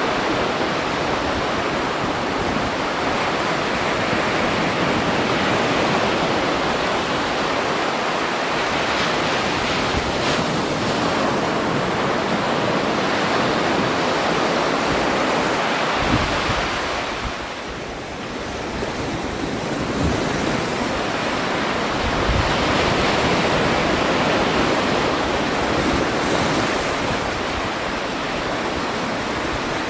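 Steady rushing noise of the kind made by surf or wind, easing for a couple of seconds a little past the middle, with occasional low buffets of wind on the microphone.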